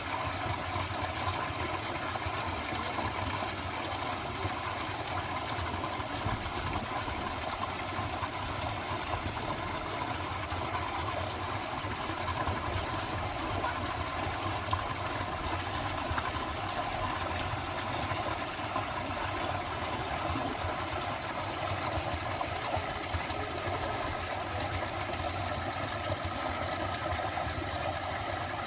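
A dense, steady chorus of frogs calling, over an even rush of running water.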